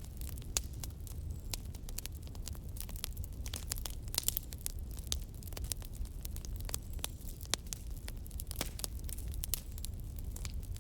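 Wood fire crackling and popping: many irregular sharp snaps over a steady low rumble of burning, with a quick cluster of pops about four seconds in.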